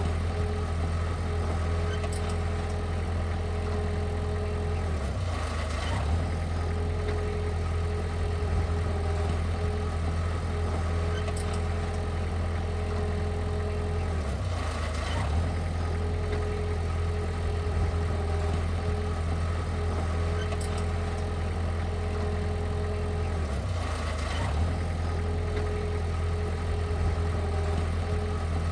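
Heavy machine's engine running steadily with a low hum, with a brief dip and change in its note about every nine or ten seconds.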